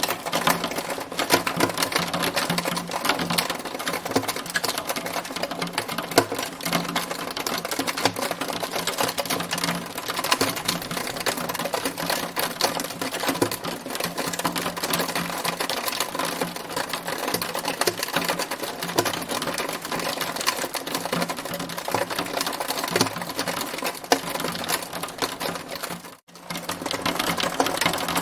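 Hail storm: a dense, steady stream of rapid clicks from hailstones striking, with a brief dropout near the end.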